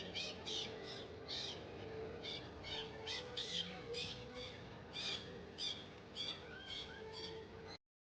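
Rapid series of short, high-pitched monkey squeals, about three a second, over a steady low background murmur; it all cuts off abruptly near the end.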